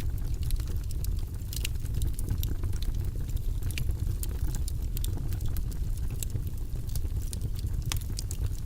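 Wood fire in a fireplace crackling: irregular sharp pops and snaps over a steady low rumble from the flames.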